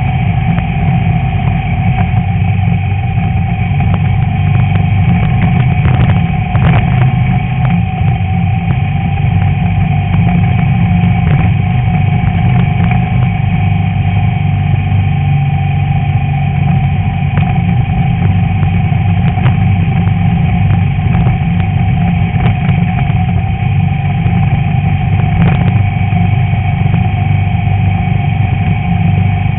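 Class 11 VW Beetle's air-cooled flat-four engine running steadily under racing load, with a few sharp knocks of the car over rough ground.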